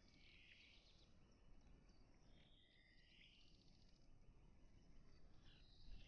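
Faint outdoor ambience with a few short, high chirping calls from birds, near the start, around the middle and again near the end.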